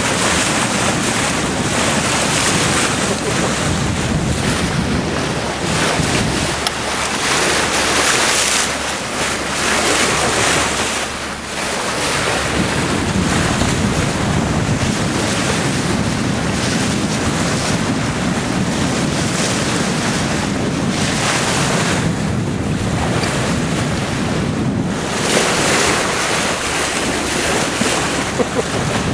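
Wind blowing on the microphone over the rush of sea water along a sailboat under way, a steady loud noise that surges and eases.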